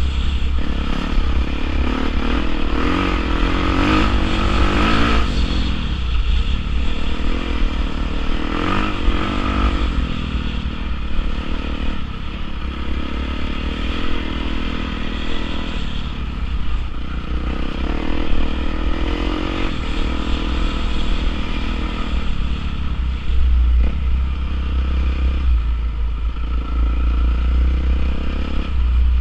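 Honda CRF450R dirt bike's single-cylinder four-stroke engine being ridden, its revs rising and falling over and over as the throttle is opened and shut, with a heavy low rumble underneath.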